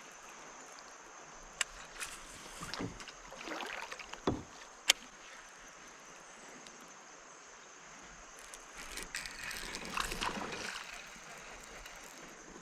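Faint sounds of a fishing kayak on calm water: soft water swishes and rustling, with a few sharp light knocks and clicks.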